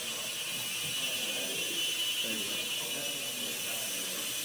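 Ultra-micro RC airplane's small electric motor and propeller whining steadily at a high pitch as it flies, with faint voices murmuring underneath.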